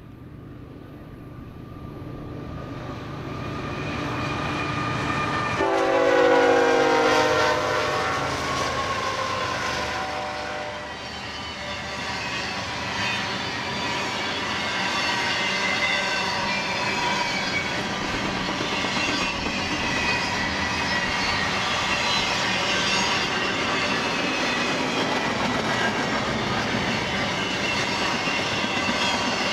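BNSF intermodal freight train approaching and passing. Its locomotive air horn blows loudest about six seconds in, the chord dropping in pitch as the engine goes by. The cars then roll past with wheel clatter and high-pitched wheel squeal.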